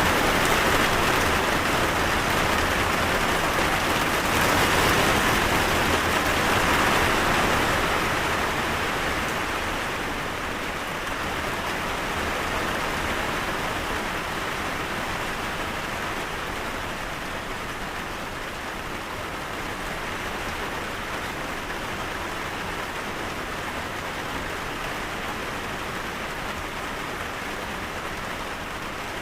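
Steady rain falling, heavier for the first several seconds and then easing off slightly to a steady patter.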